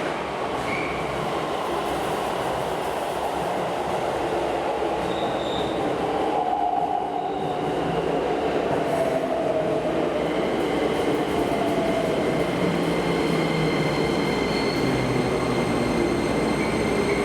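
Toei subway train running at a station platform: a dense, steady rumble, with a tone that slides down in pitch about halfway through and thin, high wheel squeals in the second half.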